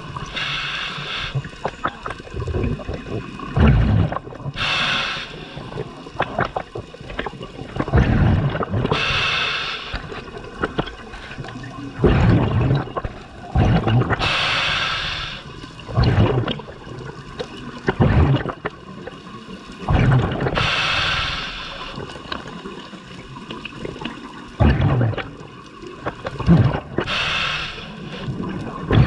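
Scuba diver breathing through a regulator underwater. A hissing inhale through the demand valve comes about every five to six seconds, each followed by gurgling, rumbling bubbles of the exhale.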